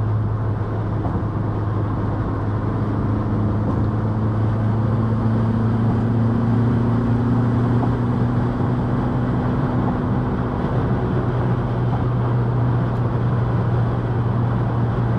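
Turbocharged 1.8 20-valve four-cylinder Mk2 Golf driving at a steady speed: an even engine drone over road noise, with no revving up or down.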